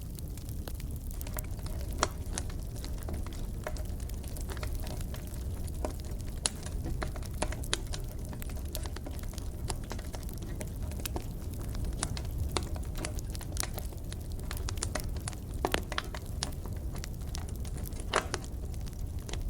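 Wood fire crackling in a fireplace: irregular sharp pops and snaps scattered throughout, over a steady low rumble of the flames.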